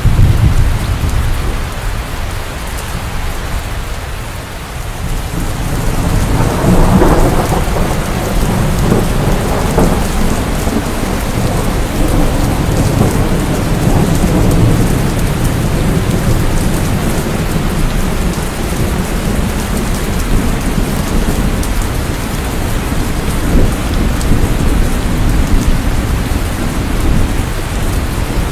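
Steady heavy rain with low rolling thunder. The rumble dips a few seconds in, then swells again about six seconds in and keeps rolling.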